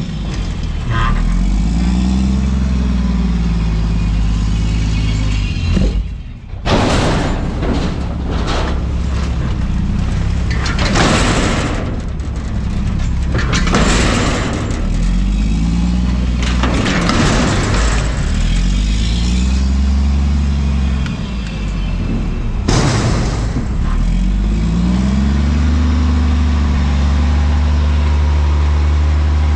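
Front-loader garbage truck's diesel engine revving up and down again and again as it drives the hydraulics through a dump cycle. From about seven seconds in there are several loud, rushing bursts of noise, five or so in all, as the load comes down into the hopper.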